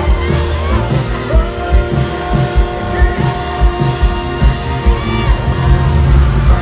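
Live sertanejo-pop band music with a steady kick-drum beat under held notes, and a voice singing over it.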